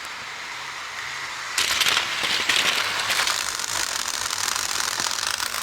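HO scale model train cars clattering on the track: a dense rattle of small clicks that gets much louder about a second and a half in.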